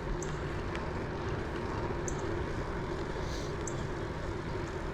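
Steady wind and road noise from riding a bicycle, with a few faint, short high chirps.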